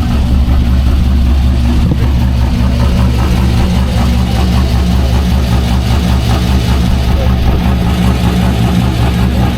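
Corvette V8 engine idling, a steady, loud, low rumble that holds even throughout.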